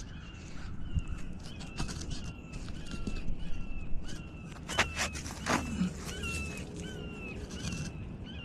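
A bird calling a short, falling note over and over, about twice a second, with a few sharp clicks about two and five seconds in.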